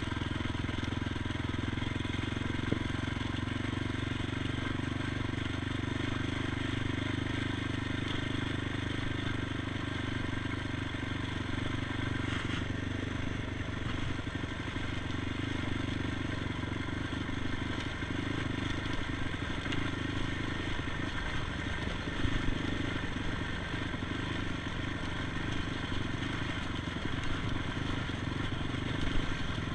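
ATV engine running at a steady pitch, with a few brief knocks.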